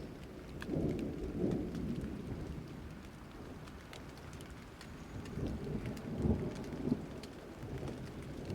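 Steady rain with scattered drops pattering, and low rumbles of thunder swelling about a second in and again past the middle.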